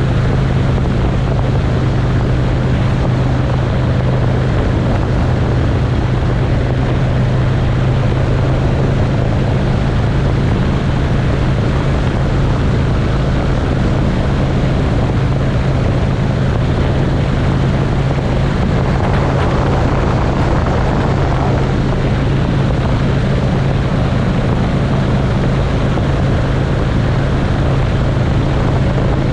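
Motorcycle engine running steadily at cruising speed, a constant low drone with rushing wind and road noise over it.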